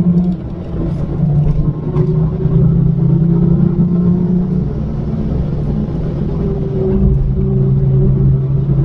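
Turbocharged 1.6-litre four-cylinder engine of a Mini R56 JCW with an aftermarket valved exhaust, heard from inside the cabin while driving on track under load. The engine note dips briefly about half a second in, then pulls steadily again.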